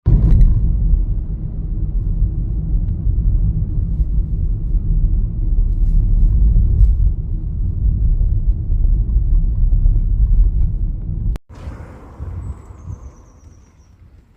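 Wind buffeting the microphone: a loud, rough low rumble that cuts off abruptly about eleven seconds in. After it, quieter outdoor background with a brief faint high chirping.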